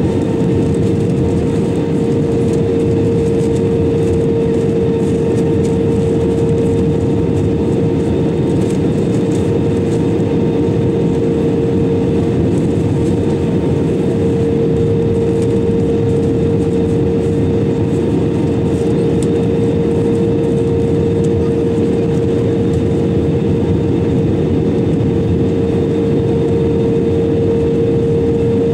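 Steady cabin noise inside an Airbus A320-200 in flight: an even rush of engine and airflow noise with a constant hum-like tone running underneath.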